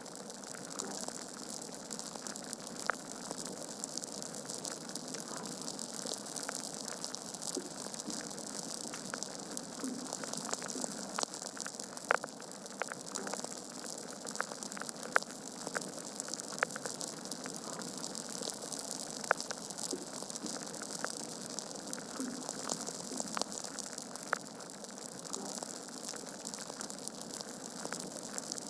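Wood fire in a fireplace burning with a steady hiss and irregular sharp crackles and pops, a few louder pops standing out.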